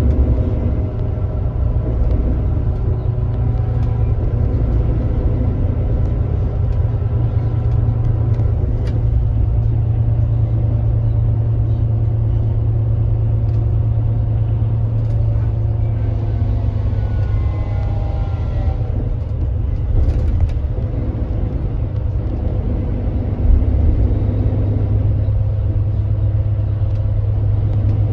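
Kia Granbird Sunshine coach's diesel engine running steadily at road speed, a constant low drone with faint shifting whines above it.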